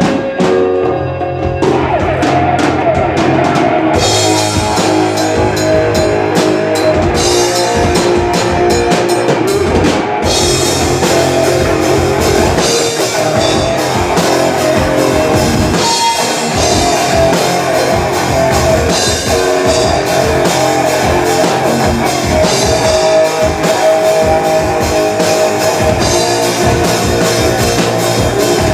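Live rock band playing an instrumental passage: drum kit with steady strokes under electric guitar and bass, loud and continuous.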